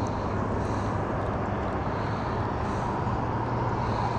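A steady engine drone with a constant low hum, holding even throughout.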